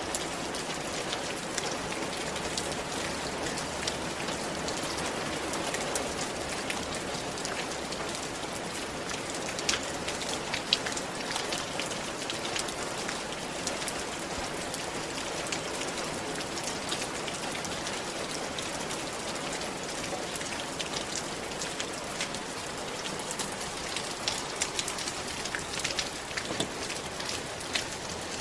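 Steady rain falling on a roof, an even patter with scattered louder drop strikes.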